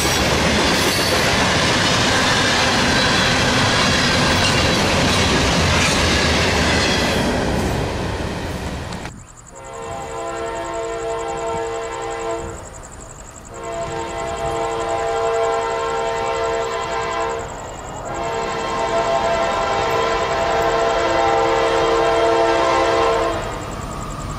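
Freight cars rolling past on jointed rail with clickety-clack and rumble. After a sudden cut, a diesel locomotive's multi-chime air horn sounds three long blasts from the approaching train.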